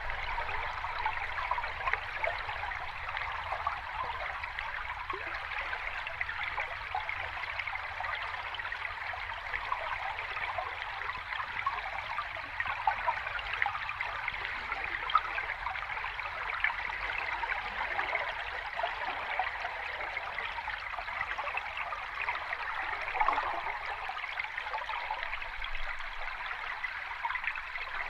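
Sea water lapping and trickling close by in a steady, even wash with fine crackling detail and no distinct wave surges.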